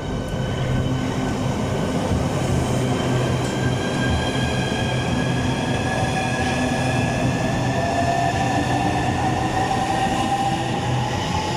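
Southeastern Class 395 high-speed electric multiple unit pulling out and accelerating. Its traction motors whine in several tones that rise slowly, over steady rolling and running noise.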